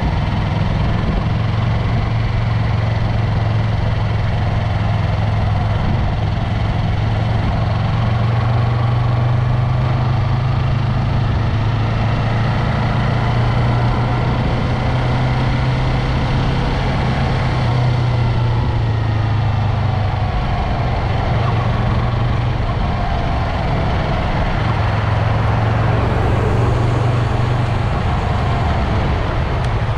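Yamaha MT-03 motorcycle engine running with a steady low drone at an even level, with faint whines that rise and fall in pitch above it.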